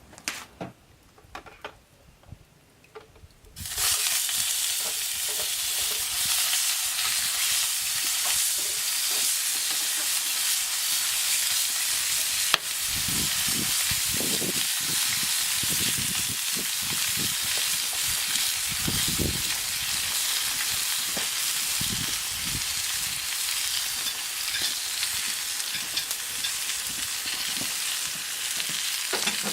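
Bacon and eggs frying in a pan, the sizzle starting suddenly about four seconds in after a few faint clicks and knocks, then holding steady and loud. There is one sharp click about a third of the way through.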